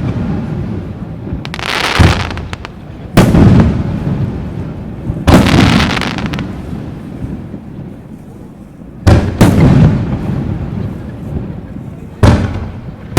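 Aerial fireworks shells bursting overhead: about five loud booms a few seconds apart, each trailing off in a long echo.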